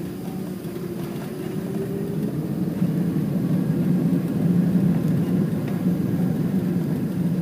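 Boeing 767 cabin noise during landing: a dense, low rumble of engines and airframe that grows louder about two seconds in and stays loud, with a faint rising tone.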